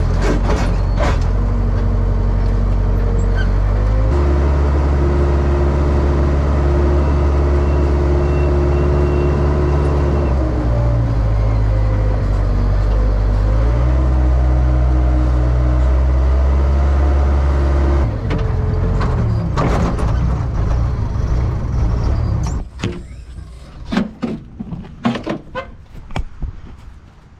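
Diesel engine of a worn Case 580K backhoe running under changing throttle: it speeds up about four seconds in, varies, then drops back. It stops abruptly near the end, followed by a few scattered knocks.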